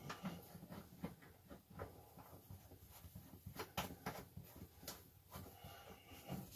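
Faint, scattered clicks and light knocks as the water supply line is handled and fitted to the RV toilet's inlet by hand, with a few stronger ticks near the middle.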